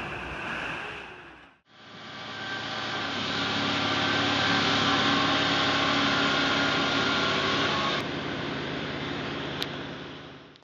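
A heavy machine's engine running steadily, with a short click near the end.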